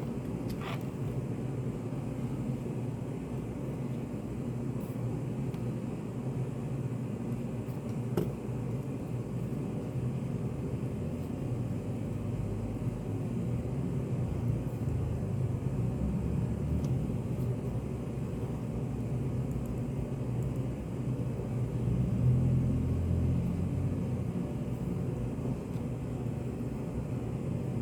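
Study-café ambience: a steady low rumble of room noise, swelling a little about two-thirds of the way through, with a couple of faint clicks.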